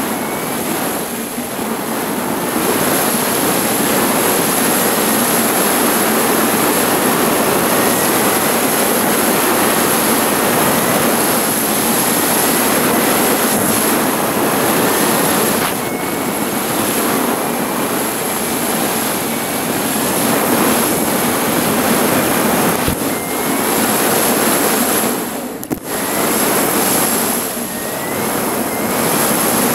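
Motorcycle riding at road speed heard through a GoPro: steady wind rush over the camera's microphone with the engine running under it and a faint wavering whine. The level dips briefly about 26 seconds in.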